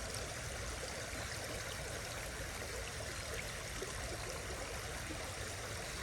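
Small creek running steadily, its water moving quickly through a shallow stretch, with an even rushing sound.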